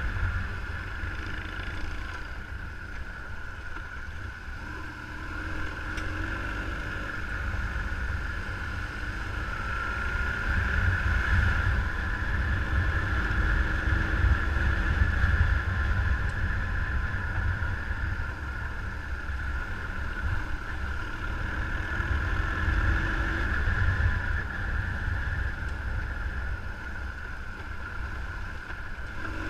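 A vehicle on the move, running steadily, with wind rumbling on the microphone. The noise grows louder through the middle stretch, then eases off.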